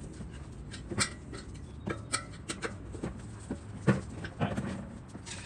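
Irregular clanks, knocks and rubbery squeaks from tyre spoons prying a dirt-bike tyre bead off its spoked rim.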